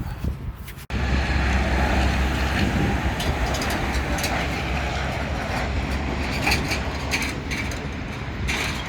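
Jet airliner passing overhead: a loud, steady roar over a deep rumble that starts abruptly about a second in.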